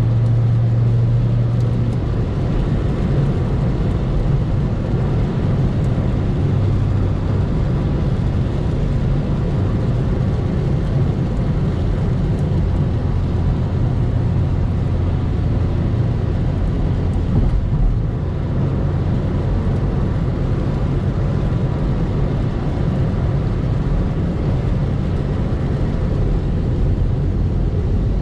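Car driving steadily: a continuous low engine drone over road noise, with the engine note shifting slightly in the first few seconds.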